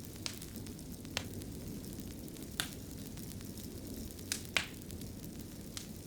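Fireplace fire crackling: a steady low rumble of flames with about six sharp pops spread irregularly through it, the loudest about four and a half seconds in.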